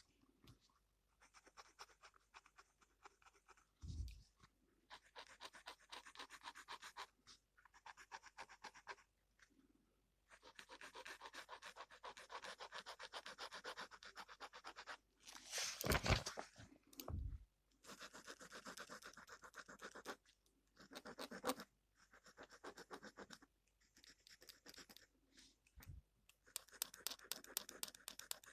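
Gel pen scratching across paper in runs of quick strokes with short pauses between them, as when colouring in. A few thumps come between the runs; the loudest is about sixteen seconds in.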